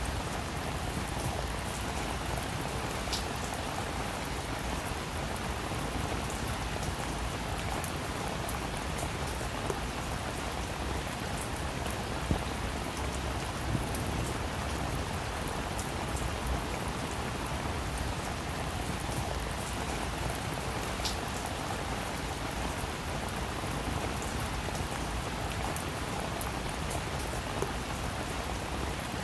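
Steady rain falling, with many small drops pattering on a surface and an occasional sharper drip.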